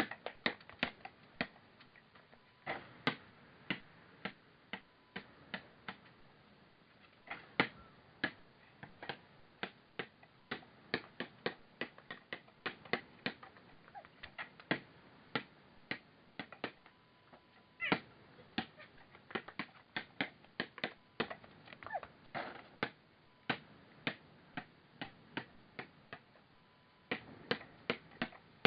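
A pet bird making many sharp, irregular clicks and taps, with a short falling chirp about two-thirds of the way through.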